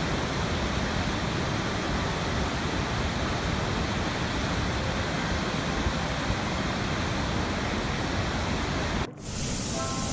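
Steady rushing water, a dense even wash like a waterfall, with a brief dip about nine seconds in.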